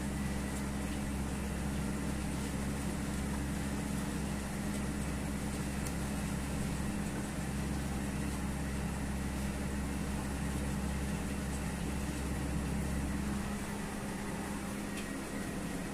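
A steady low machine hum with no distinct events; its deepest rumble weakens near the end.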